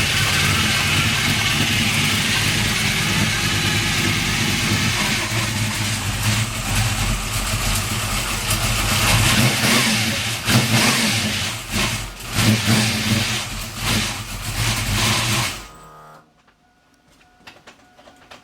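Freshly built 383 stroker V8 with a gear-drive timing set running at a fast idle, then revved in uneven blips, then cutting out about 15 s in. The engine is new and tight, with its ignition timing still a little off.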